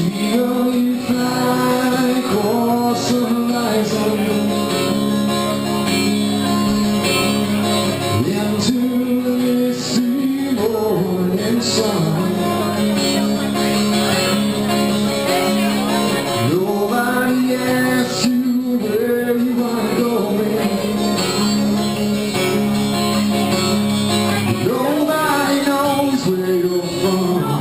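Live music: a male voice singing over acoustic guitar, the pitch of the voice gliding between long held notes.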